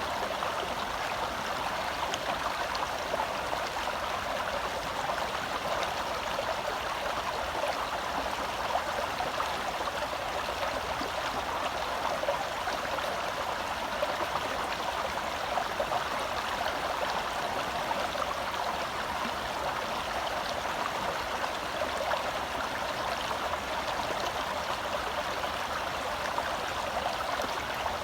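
Shallow forest stream flowing and babbling over rocks, a steady rushing sound.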